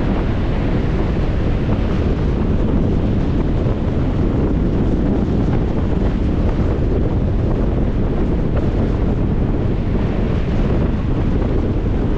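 Strong wind buffeting the microphone, loud and steady, over the surf of Lake Michigan waves.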